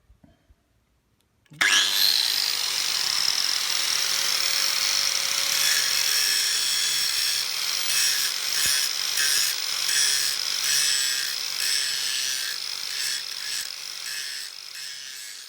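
A rotary power tool starts about a second and a half in, spins up quickly and runs with a steady high whine as it works metal. In the second half it pulses about twice a second.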